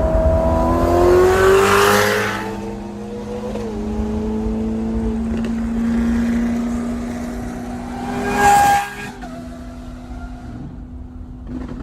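Supercar engine revving, its pitch rising to a loud peak about two seconds in, then running at a steady drone. A second short loud blast comes near the nine-second mark before it settles to a quieter steady drone.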